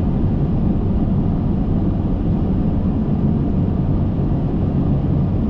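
Steady low rumble of cockpit noise on an Airbus A380 flight deck: airflow and engine noise heard from inside the cockpit, even and unchanging.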